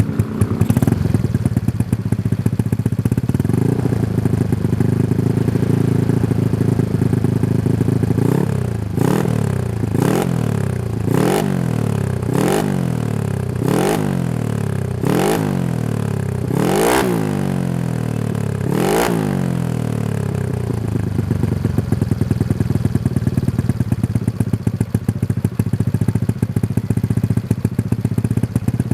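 Honda Scoopy scooter's single-cylinder four-stroke engine running through a CLD Racing New C2 aftermarket exhaust: idling, then revved in about eight quick throttle blips, each climbing sharply and falling back, before settling to idle again.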